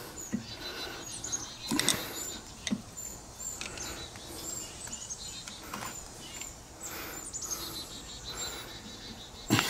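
Small birds chirping over and over, with scattered clicks and knocks from hand work on the trolling motor's parts; a sharp knock near the end is the loudest sound.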